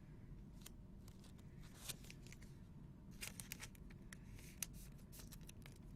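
Faint scraping and light clicks of trading cards being handled and slid against each other, in short bursts about two, three and four and a half seconds in, over a low room hum.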